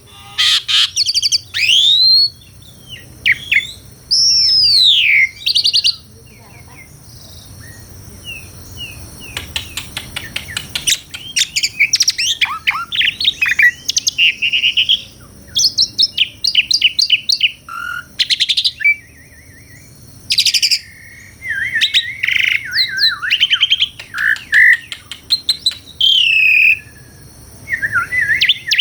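Asian pied starling (jalak suren) singing a varied, loud song of whistled notes that glide up and down, mixed with fast rattling trills and clicking phrases, in bursts separated by short pauses.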